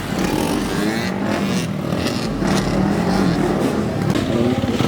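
Loud vehicle engines running close by, their pitch wandering up and down a little.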